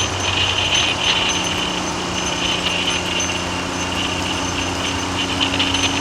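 Triumph Trident three-cylinder motorcycle engine running steadily while riding, with wind noise on the microphone.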